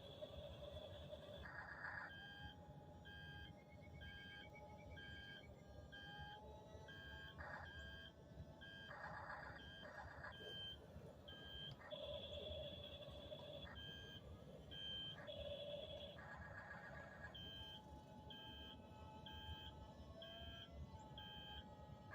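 Faint electronic beeping from a Double E remote-control track-type tractor toy's sound unit, about two beeps a second like reversing beeps, alternating with longer steady tones.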